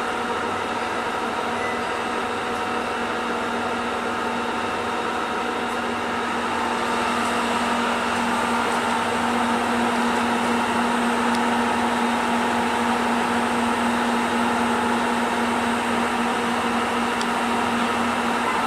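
Steady mechanical hum with several held tones, growing a little louder about six seconds in.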